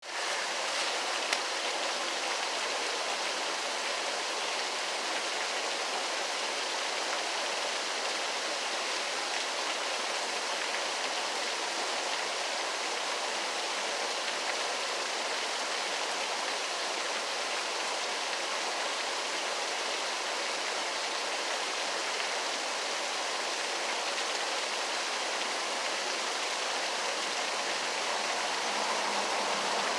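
Waterfall: a steady rush of falling water with a bright, hissing edge, unchanging after a quick fade-in at the start.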